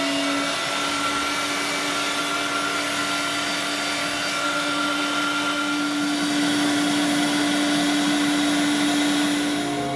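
Electric meat grinder running steadily as it grinds seasoned meat, a constant motor whir with a steady hum.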